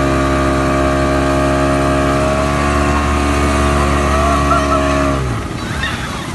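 Motorboat engine running steadily at speed while towing a banana boat, then cutting back abruptly about five seconds in; faint voices follow.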